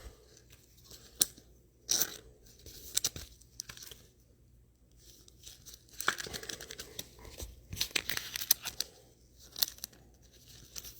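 Trading cards being handled in plastic sleeves and top-loaders: scattered short crinkles and rustles of plastic with a few light clicks, quiet gaps between.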